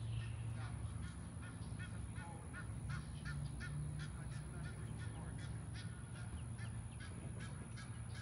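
Birds calling in a fast run of short, repeated calls, about three a second, over a steady low hum.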